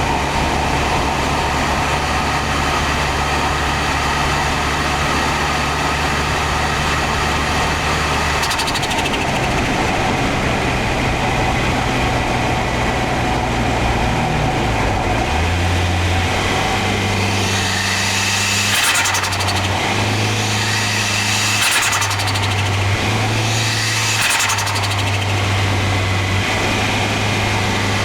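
Toyota Starlet Glanza V's turbocharged 1.3-litre four-cylinder engine running while driving. Its pitch steps a couple of times, then in the second half a turbo flutter comes on three throttle lifts between gears, a few seconds apart.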